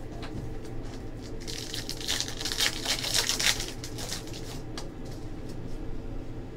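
Foil wrapper of a trading-card pack crinkling as it is torn open, a dense crackle for about three seconds from around a second and a half in, with light clicks of cards being handled before and after.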